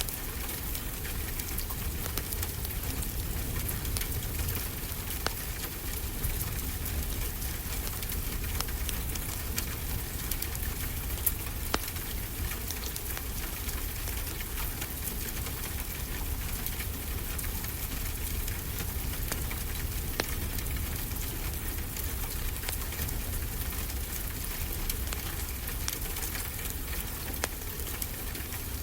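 Wood fire crackling with scattered sharp pops, a few louder than the rest, over a steady hiss and low rumble of ocean surf.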